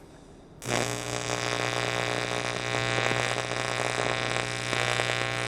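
Welding arc on the aluminum fuel tank, a steady loud buzz that starts about half a second in and holds without a break.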